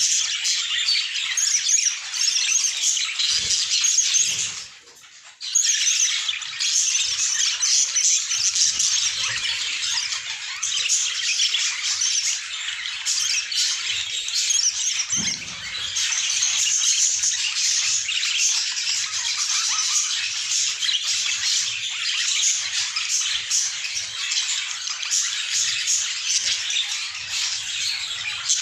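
A group of budgerigars chattering and chirping continuously in a dense, busy warble, with a brief drop-out about five seconds in.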